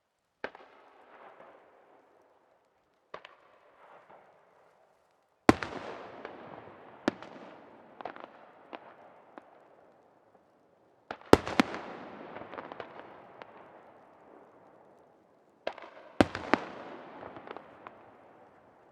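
Aerial fireworks shells bursting in the night sky at irregular intervals. Each sharp bang is followed by a crackling, echoing tail that fades over a couple of seconds. The loudest bursts come about five and eleven seconds in.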